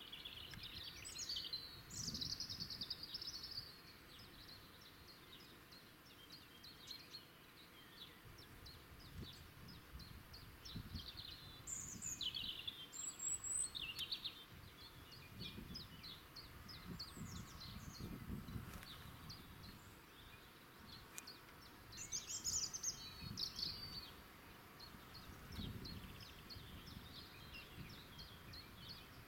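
Wild birds singing: a few short, high song phrases and scattered chirps, over a faint low background rumble.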